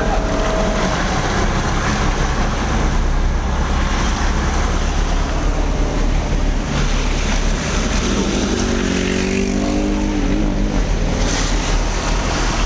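Vehicle driving slowly through floodwater: a steady engine rumble with water washing and splashing around it. A brief wavering pitched sound rises over it about eight seconds in.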